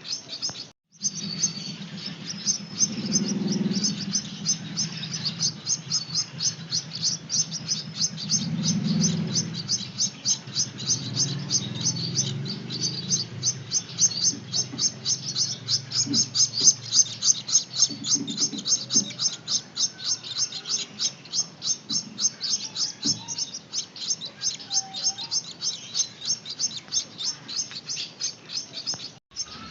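Gouldian finch chicks giving high, rapid begging chirps, about five a second without let-up, as they are hand-fed.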